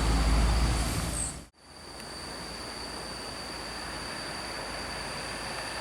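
Heavy bus's diesel engine rumbling low for about the first second and a half, then cut off abruptly. After the cut comes quieter steady traffic noise with a constant high thin whine.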